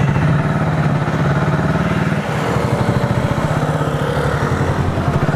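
Italika 250Z motorcycle's single-cylinder engine running steadily at low revs, with an even pulsing beat.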